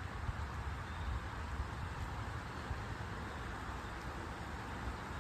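Wind gusting through tree leaves, a steady rustle, with a low rumble of wind buffeting the microphone.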